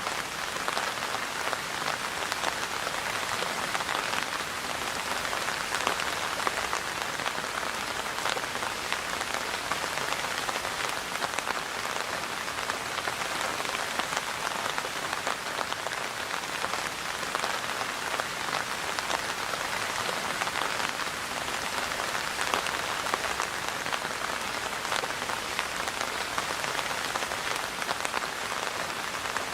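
Steady rain falling on a surface: an even hiss full of small individual drop ticks that holds unchanged throughout.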